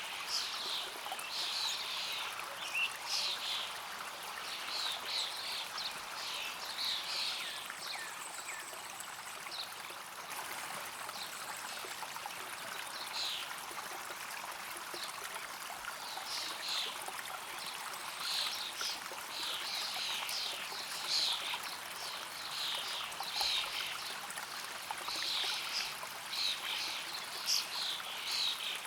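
A stream of water running steadily, with clusters of short, high chirping calls from animals over it, coming and going in spells.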